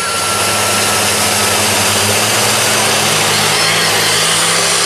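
Monster truck engines running hard at steady high revs, under a loud, even rush of noise.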